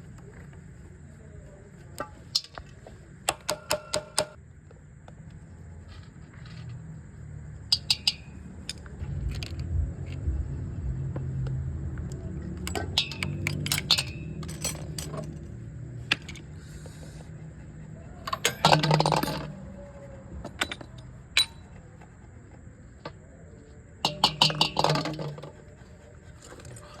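Metal clinking and rattling in short clusters of sharp clicks, as of metal parts or tools being handled, with the longest and loudest rattles near the middle and again near the end. A low steady hum runs underneath.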